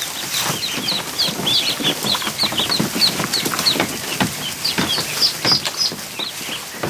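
A flock of ducklings peeping: many short, high cheeps overlapping, over a busy patter of small knocks and scuffles from their movement.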